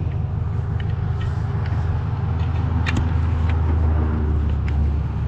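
Vehicle engine idling steadily, a low even hum, with a few light clicks and knocks over it.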